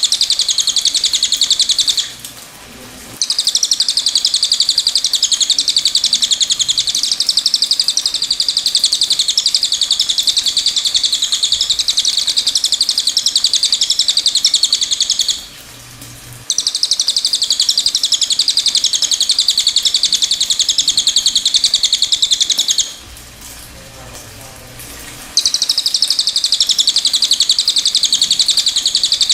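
Cililin song: long, rapid, high-pitched trills lasting several seconds each, broken by three short pauses about 2, 15 and 23 seconds in.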